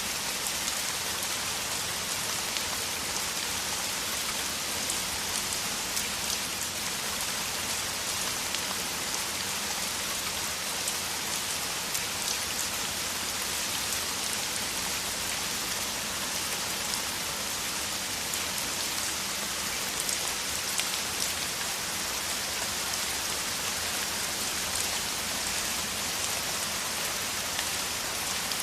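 Heavy downpour of rain falling steadily, a dense hiss of rain with individual drops pattering sharply through it.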